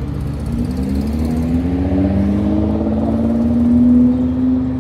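A car's engine under acceleration: its note climbs in pitch over the first couple of seconds, then holds fairly steady while growing louder, peaking about four seconds in.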